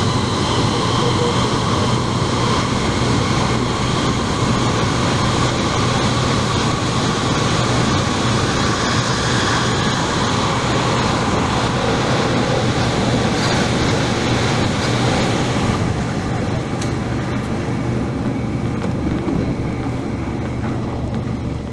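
Korean-built MTR K-Train electric multiple unit running at speed, heard from inside the car: a steady rumble of wheels on rail with a high traction-motor whine. About sixteen seconds in, the whine and hiss fade away and the sound settles lower and quieter.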